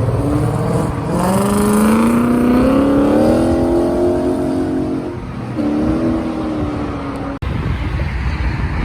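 A car accelerating hard away from the meet: the engine pitch climbs steadily for about three seconds, drops at a gear change, then pulls again. The sound cuts out for an instant near the end and picks up as steady engine and road noise.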